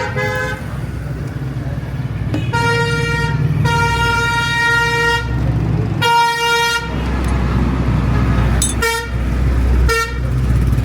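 A vehicle horn honking repeatedly: a short toot, several long blasts, then a few short toots near the end, over a running engine whose rumble grows heavier in the second half.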